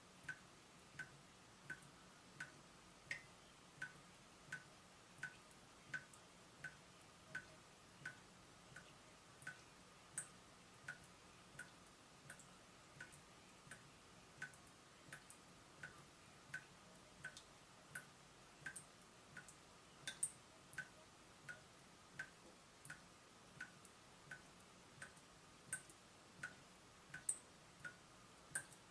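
Water dripping from a leaking tap, one drop landing about every two-thirds of a second in a steady rhythm, each a short, sharp plink.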